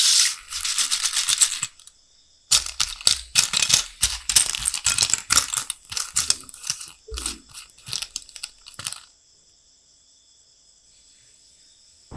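Small plastic LEGO pieces clattering and rustling in quick runs of clicks, in two stretches that stop about nine seconds in.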